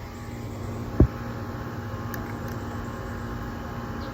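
Steady low hum with a few constant tones, and a single dull thump about a second in.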